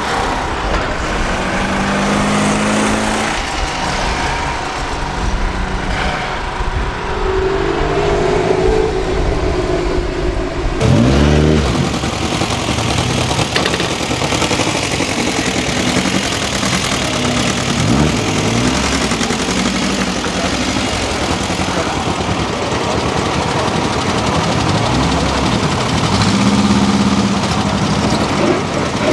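Old Japanese three-wheeled truck engines running and revving as they drive: first a Tokyu Kurogane KW8. About 11 s in, the sound changes abruptly to a Giant AA26F, which revs up sharply. Engine pitch rises and falls several times.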